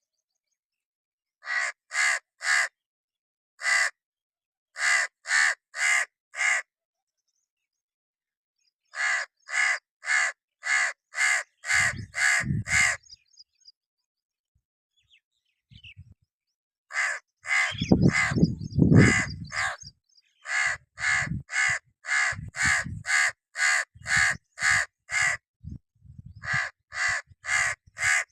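A crow cawing in runs of three or four harsh caws, about two a second, with pauses between the runs. Bursts of low rumbling noise come in about halfway through and are loudest about two-thirds of the way in.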